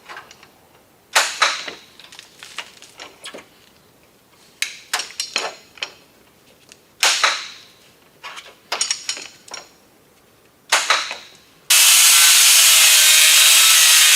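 Metal-on-metal clicks and knocks, each with a short ring, from dent-pulling work on a car door's sheet metal. About twelve seconds in, a loud, steady power-tool noise with a wavering tone starts abruptly.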